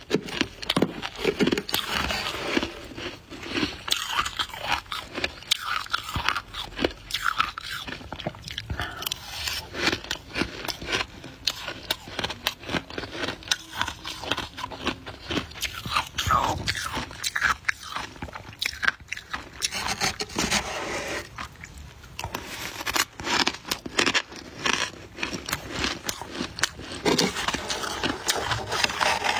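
Close-miked biting and chewing of soft white ice, like freezer frost or shaved ice, making dense, irregular crunching that goes on without a break.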